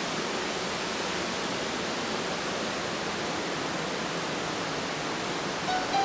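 Steady, even rush of a waterfall and river in spate, the water running very fast and high with the rainy season. A few faint musical tones come in near the end.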